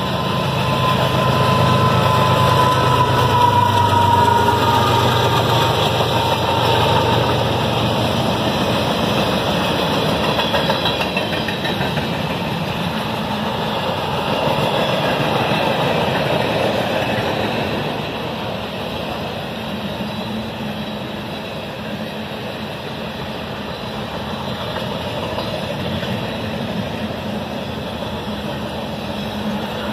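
Freight cars of a CSX train rolling past: a steady rumble of steel wheels on rail. A locomotive's diesel engine hums low in the first few seconds, and a faint wheel squeal slides down in pitch over the first several seconds. The rumble eases somewhat in the second half.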